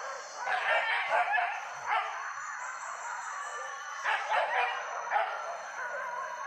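Hunting dogs barking and yelping in two clusters of short calls, the first about half a second in and the second about four seconds in.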